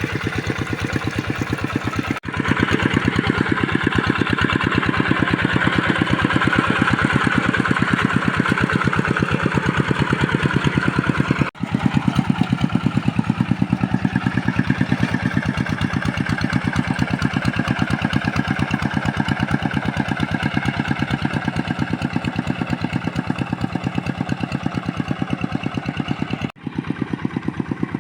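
Tractor's diesel engine running steadily, with a fast, even chug of firing pulses. The sound drops out briefly three times.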